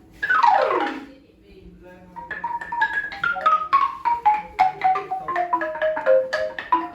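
A xylophone-type instrument being played: a quick downward glissando swept across the bars, then a run of single struck notes stepping down the scale.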